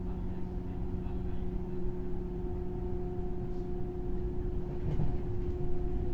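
Running sound inside a JR West 103-series motor car with MT55 traction motors, moving at a steady speed: a constant motor hum over the low rumble of the wheels on the rails, with a faint click about five seconds in.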